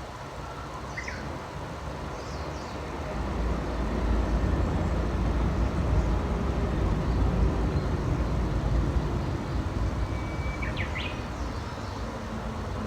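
Low rumble of a passing vehicle that swells for several seconds and then fades, its pitch dropping slightly as it goes. A few short, quick bird calls sound over it, one near the start and a couple more near the end.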